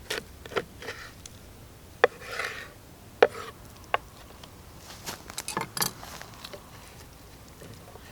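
Scissors snipping through a raw chicken's rib bones along the backbone: a string of sharp, irregular clicks and crunches, bunched together about five to six seconds in.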